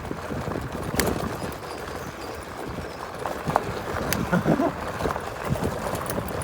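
Chaos GT 1600 W electric scooter ridden over rough off-road ground: its off-road tyres rumble and the scooter rattles and knocks irregularly, with a couple of sharp clicks.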